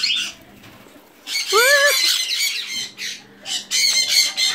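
Pet parrots squawking: harsh, high-pitched screeching calls begin about a second in and come in two spells, with one rising-and-falling whistled call among them.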